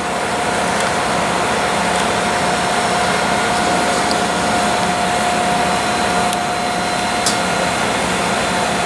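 Airbus A400M Atlas's four TP400-D6 turboprop engines and propellers running as a steady, loud drone with a constant whine, swelling slightly in the first second.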